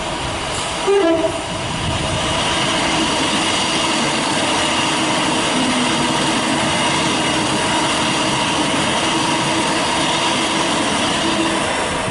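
Electric multiple-unit train sounding a short horn blast about a second in as it approaches, then running past close by with a steady, loud rush of wheels on rail.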